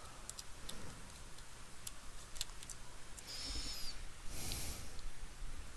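Faint, scattered small clicks of a screwdriver and screws as a laptop's heatsink is being unscrewed, with a brief wavering high squeak about three seconds in and a short hiss about a second after it.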